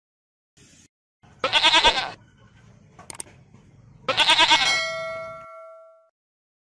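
Goat bleating twice, two wavering, quavering calls about two and a half seconds apart. A ringing, bell-like tone lingers briefly after the second bleat.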